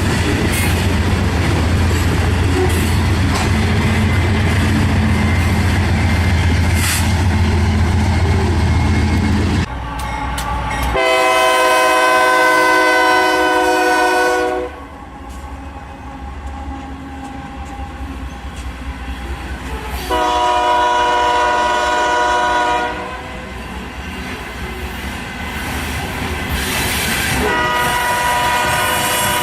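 Freight diesel locomotive horn sounding long blasts, about three and a half seconds, then about three seconds, with a third starting near the end, over a train's rolling rail noise. Before the horn there is a loud steady low rumble that cuts off suddenly about ten seconds in.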